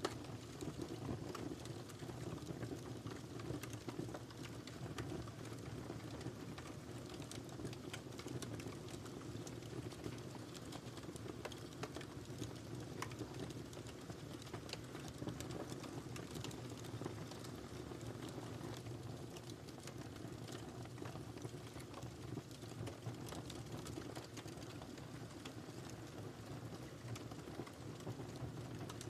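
Wood fire crackling in a fireplace: a steady low rush of flames with many scattered small crackles and pops.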